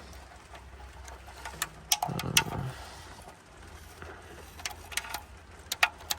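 Sharp, irregular metallic clicks and taps of tools and M6 bolts being handled while the oil pan is bolted back onto a 2005 Nissan Sentra, with a brief heavier clatter about two seconds in.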